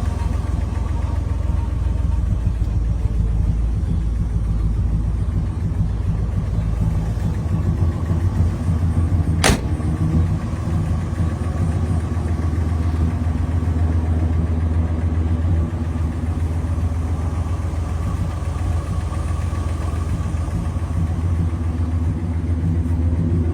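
1959 Dodge Coronet's 326 V8 running steadily at idle. There is a single sharp click about nine and a half seconds in.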